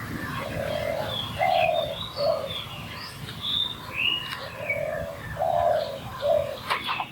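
Wild birds calling: a low three-note call heard twice, under higher chirps and twitters from other birds, with a couple of sharp clicks near the end.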